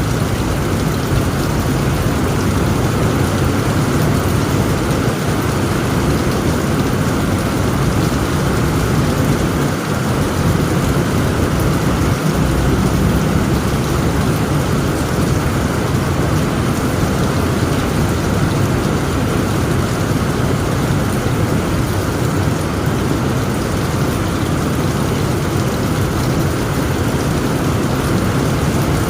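Heavy rain falling steadily on a tent roof, with a low, continuous rumble of thunder underneath.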